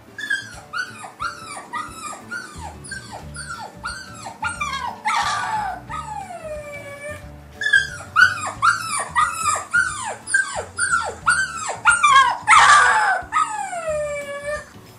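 Recorded dog yips and whimpers from a dog-sound app: quick short calls falling in pitch, about three a second, in two runs, each with a longer, louder whine sliding down, one around five seconds in and one near the end, over background music.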